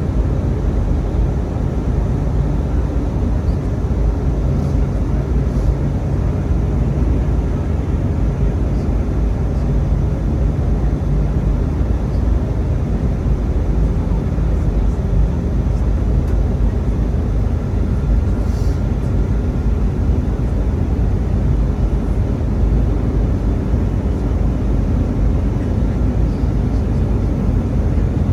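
Steady low roar of an Airbus A319 airliner in flight, its engines and rushing air running evenly throughout.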